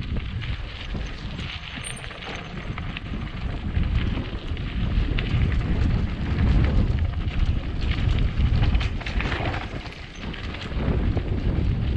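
Mountain bike descending a rough dirt trail: wind buffeting the microphone over a constant rumble, with quick rattles and clicks from the tyres and bike on the bumps, getting louder about a third of the way in.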